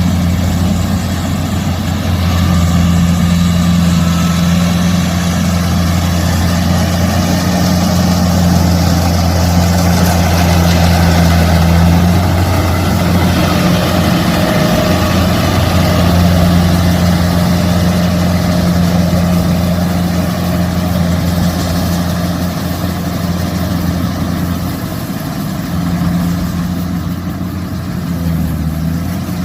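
Kubota rice combine harvester's diesel engine running steadily with a strong low hum. The engine note wavers briefly about halfway through and again near the end.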